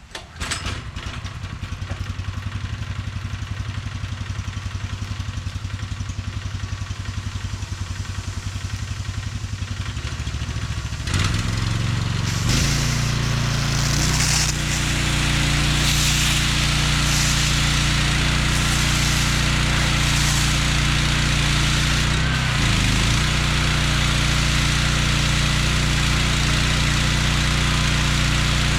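Gas-engine pressure washer starting up and running with a rapid, uneven beat. About eleven seconds in it gets louder and steadier, and a hiss of high-pressure water spray joins it soon after.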